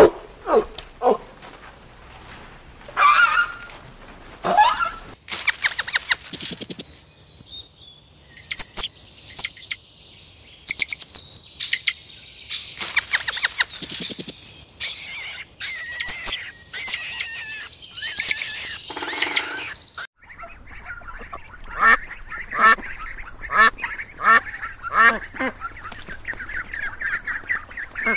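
White domestic ducks quacking in a regular string of calls, about two a second, through the last third. Before that, a long stretch of crisp, high crackling and rustling, and a few scattered short sounds at the very start.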